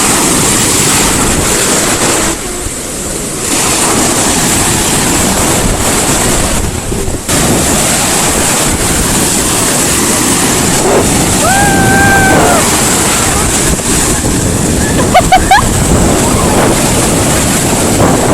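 Ocean surf breaking with strong wind buffeting the microphone, a loud steady rush that dips briefly a few times. One short held high-pitched call sounds in the middle, and a few quick sharp squeaks come a few seconds later.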